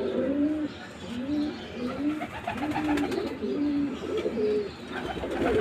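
Pigeons cooing: a steady run of short, low, arching coos, roughly two a second, some overlapping as though from more than one bird.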